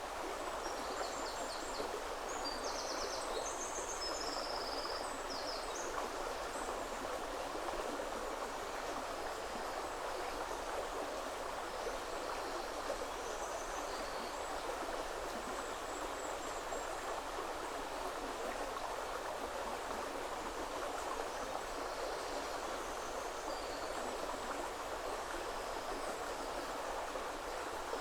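River water flowing and rushing steadily over stones. Small birds sing short, high, chirping phrases in the first few seconds, with fainter calls later.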